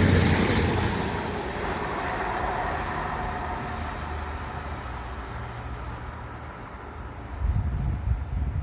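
A passing train running away into the distance, its rumble and rail noise fading steadily. A few low thumps come near the end.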